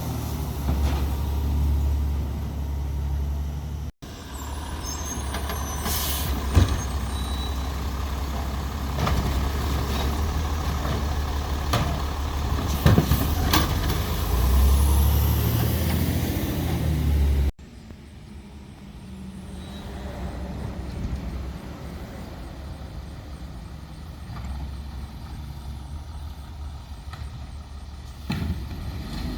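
Peterbilt 320 Labrie Expert 2000 side-loader garbage truck running with a steady, deep diesel rumble. A few short sharp hisses and knocks come through, one about six seconds in and one about thirteen seconds in.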